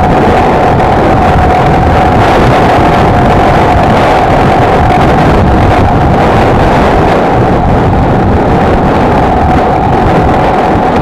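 Honda XLR125R's single-cylinder four-stroke engine running at a steady cruise, its note holding nearly level, under loud wind rush on the microphone.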